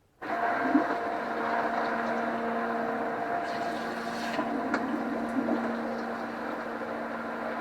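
Small electric pump running with a steady hum and water rushing through it, circulating vinegar through a tankless water heater to descale it. It cuts in abruptly just after the start.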